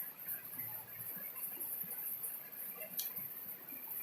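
Faint room tone with small scattered ticks and one sharp click about three seconds in.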